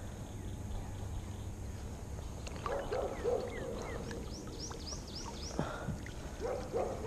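A bird sings a quick run of about six high chirps in the middle, with a few lower warbled notes before and after, over a steady low rumble.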